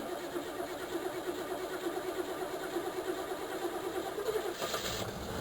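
Starter motor cranking the cold 305 cubic-inch small-block V8 of a 1985 Chevrolet Caprice, which has a malfunctioning choke, in an even pulsing rhythm for about five seconds; near the end the engine catches and starts running.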